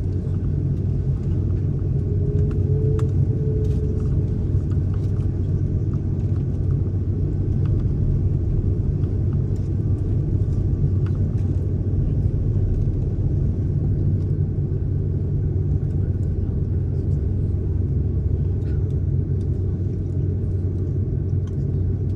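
Steady low rumble of an airliner's engines and cabin noise, heard from inside the passenger cabin, holding an even level with no build-up.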